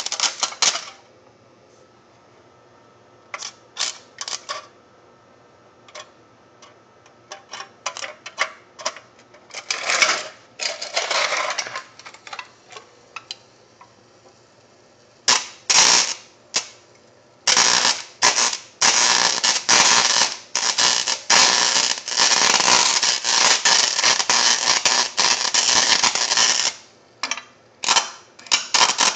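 Aluminium pop can shorted across a rewound microwave-oven transformer's high-current secondary, crackling and sparking as it arcs and melts. The crackle comes in scattered bursts at first, then runs almost without a break for about ten seconds in the last third before breaking up again.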